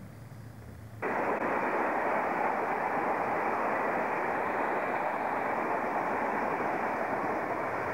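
A double-deck electric suburban train running past, a steady rushing rumble of wheels on rail that starts suddenly about a second in, after a faint low hum.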